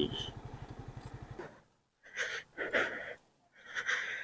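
A motorcycle engine idles with a low, even pulsing for about a second and a half, then stops. After a short pause come three separate breathy puffs of breath close to the microphone.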